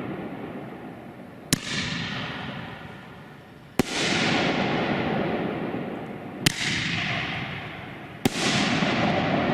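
Large consumer fireworks cake firing its shots: four sharp reports about two to three seconds apart. Each is followed by a loud hissing wash that slowly fades.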